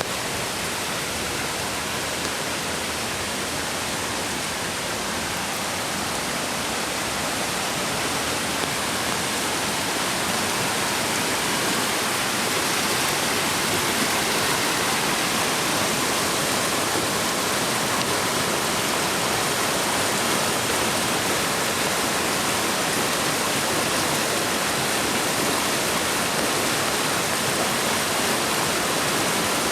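Mountain creek rushing over rocks: a steady hiss of running water that grows slightly louder about ten seconds in.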